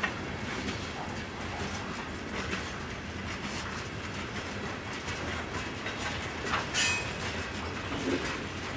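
Train rolling past: steady rail rumble with wheels clicking over rail joints, and one brief sharp high-pitched noise about seven seconds in.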